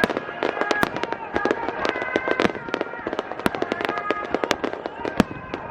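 Fireworks bursting in dense, rapid succession: many sharp pops and crackles, several a second, with a few louder reports standing out, the loudest about five seconds in.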